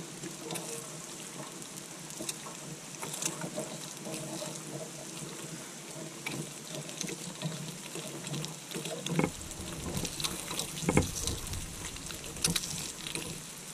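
Hash browns sizzling and crackling in a hot skillet, a steady hiss with a few sharper knocks in the second half.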